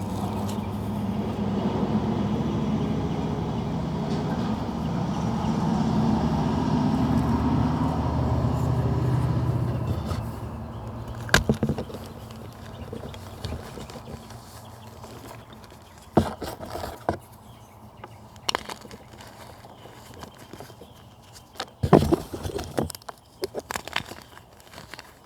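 A vehicle engine passing nearby, a low hum that swells and fades out over the first ten seconds. It is followed by a handful of sharp crunches and snaps of dry natural material being crushed, spaced a few seconds apart, the loudest about twenty-two seconds in.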